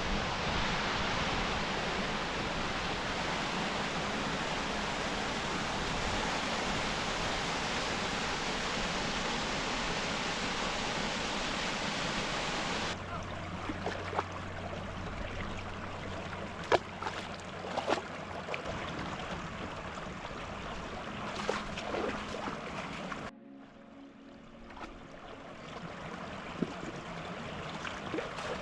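Mountain beck running over small waterfalls: a steady, loud rush of water that cuts about 13 seconds in to a quieter flow with scattered sharp clicks, then drops quieter again a few seconds before the end.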